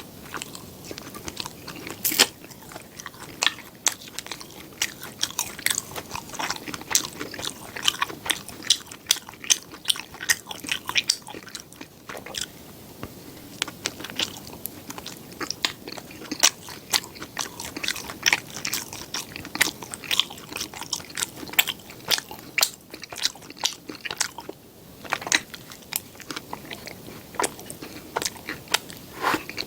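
Close-miked eating: biting into and chewing bread, heard as a dense, irregular run of sharp crackly clicks.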